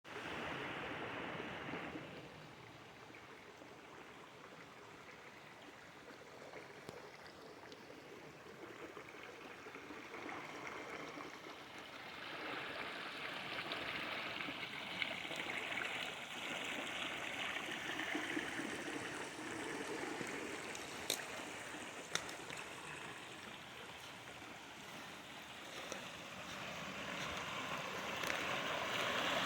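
Water running in a small stream channel feeding a pond, a steady rushing that swells and fades in loudness and grows loudest near the end, with a couple of sharp ticks about two-thirds of the way through.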